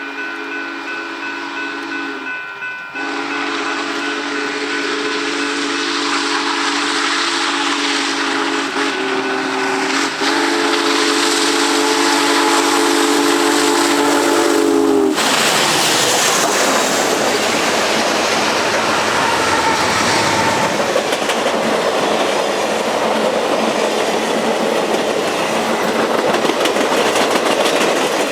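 Union Pacific Big Boy 4014's steam whistle blowing a long chord, with a short break about three seconds in, cutting off sharply about halfway through. The locomotive and train then pass right over the track with loud steam hiss and wheel clatter.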